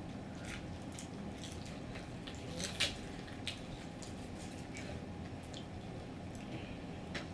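Close-miked eating sounds: wet mouth clicks and smacks while chewing fried chicken, scattered and irregular, with one louder crackle about three seconds in, over a steady low hum.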